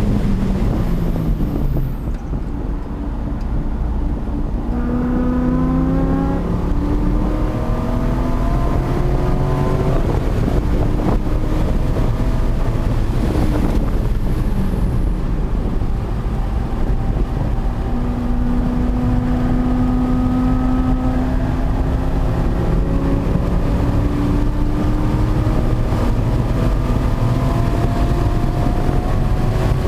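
C5 Corvette Z06's LS6 V8 engine driven hard on a road course: its pitch falls early on as it slows, then climbs again and again under acceleration, over a steady rumble of wind noise.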